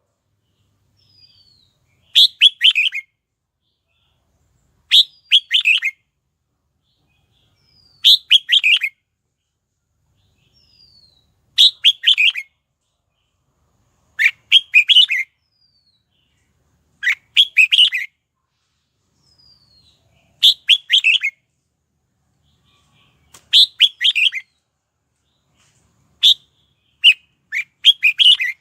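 Red-whiskered bulbul singing short, loud warbled phrases, one about every three seconds with silence between, and a faint falling whistle between some of them.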